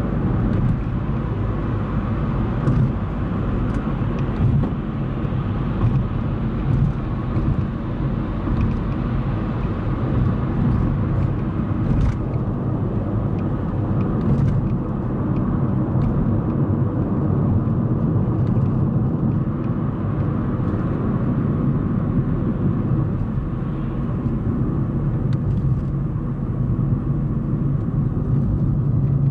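Steady low road noise inside a moving car's cabin: engine and tyre rumble at a constant speed.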